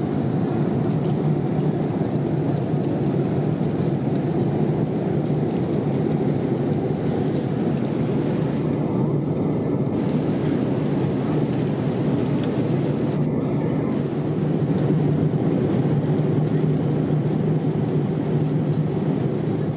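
Steady cabin noise inside a Boeing 787-8 airliner in flight: an even rumble of engine and airflow noise with a low hum, unchanging throughout.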